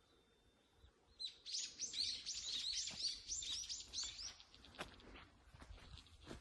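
A bird singing a fast run of high, repeated chirping notes, about four or five a second, starting about a second in and lasting about three seconds.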